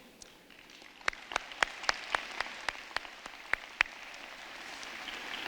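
Audience applauding. About a second in, one person nearby claps loudly at about four claps a second, and the rest of the crowd's applause builds toward the end.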